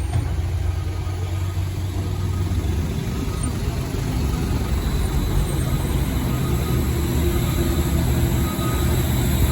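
Motor vehicle engine running steadily, a low drone that grows a little louder about four seconds in.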